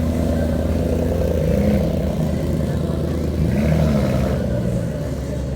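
A car engine running steadily, with two brief revs that rise and fall in pitch, the first about a second and a half in and the second near the four-second mark.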